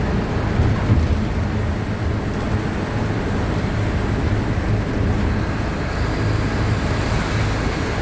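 Diesel engine of a Mercedes-Benz OF-1519 BlueTec 5 city bus running steadily under way, a low drone with road and wind noise over it.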